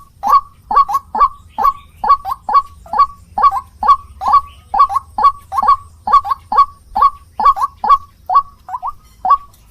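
White-breasted waterhen (ruak-ruak) calling: a steady run of short, harsh, honking notes, about two to three a second and often in quick pairs.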